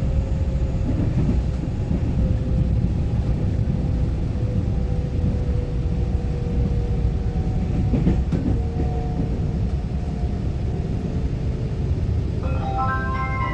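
Inside a Taiwan Railway EMU900-series electric multiple unit (set EMU923) under way: a steady rail-and-running rumble with a thin motor whine that falls slowly in pitch as the train slows. About twelve seconds in, the onboard chime melody begins that comes before the next-station announcement.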